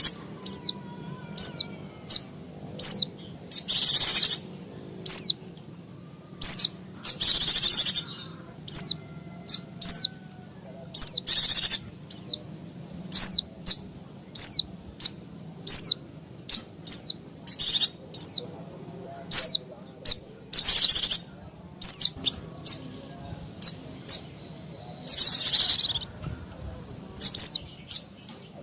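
White-eyes (pleci) calling busily: short, high chirps that slide down in pitch, coming in quick, irregular succession, mixed with harsher, rasping bursts about half a second long.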